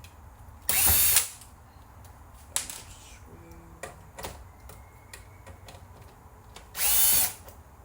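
Cordless drill or power screwdriver running in two short bursts of about half a second each, one about a second in and one near the end, its motor whine rising and falling as it drives screws out of the VCR chassis. A few sharp clicks and knocks of parts being handled in between.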